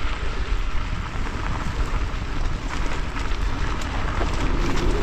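Steady rushing noise with a heavy low rumble and light crackle, typical of wind buffeting the microphone while cycling on gravel.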